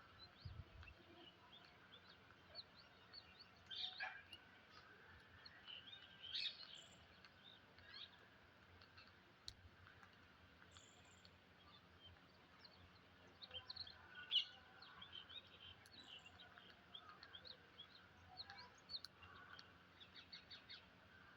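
Parrots giving faint, scattered short chirps and squawks, with a few louder calls now and then.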